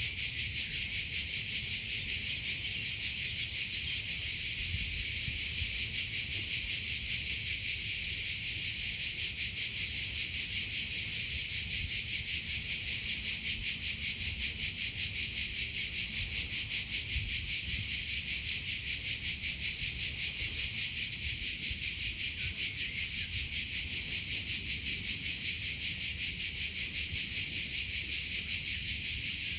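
Cricket chirping in a steady, rapid pulsing trill that runs on without a break.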